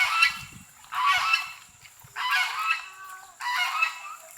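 A farm bird calling over and over: four loud calls about a second apart.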